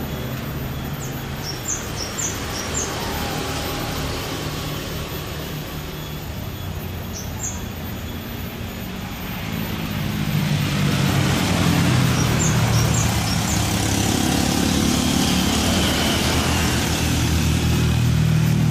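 Private jet's engines running with a steady noise and low hum, growing louder about ten seconds in. A few short high chirps sound over it.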